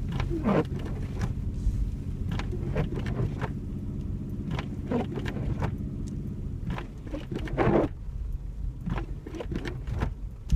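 Car driving in snow: a steady engine and road hum from inside the cabin, with scattered short clicks and knocks.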